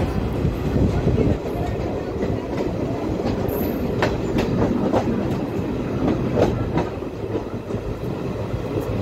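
Moving passenger train heard from an open coach doorway: a steady rumble of wheels on track, with irregular clacks as the wheels cross rail joints and points.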